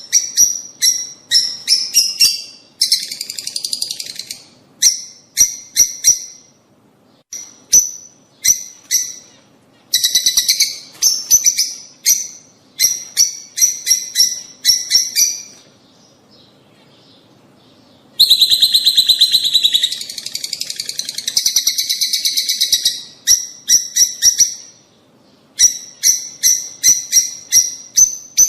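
Lovebirds calling: runs of sharp, high-pitched chirps several a second, broken by stretches of fast, dense chatter, with a short lull about two thirds of the way through.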